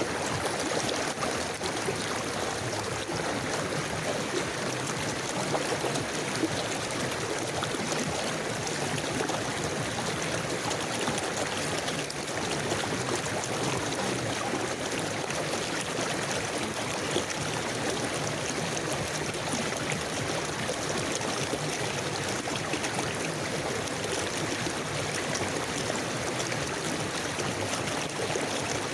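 A forest river flowing, a steady rush of moving water with continuous gurgling.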